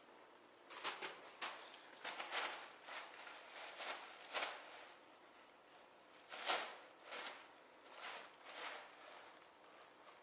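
A plastic bag crinkling in a run of short, irregular rustles as a kitten plays with it, starting about a second in and stopping shortly before the end.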